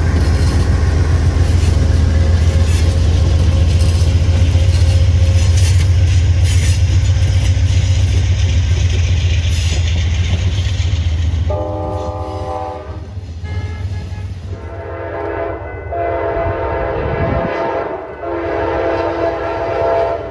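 Amtrak passenger coaches rolling past close by: a heavy, low rumble with wheel noise. About halfway through, a GE Genesis locomotive approaching a grade crossing sounds its horn in a series of long blasts.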